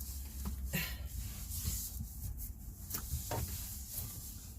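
Rubbing, scuffing and small clicks of a steering wheel cover being stretched and worked onto a truck's steering wheel by hand, over a steady low rumble.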